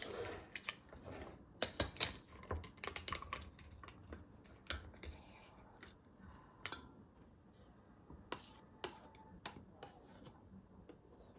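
Irregular light clicks and clinks of kitchen utensils and dishes, a few sharper knocks among them.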